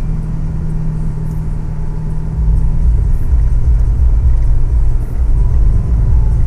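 Truck engine running with a low, steady rumble that grows louder about two and a half seconds in as it pulls harder.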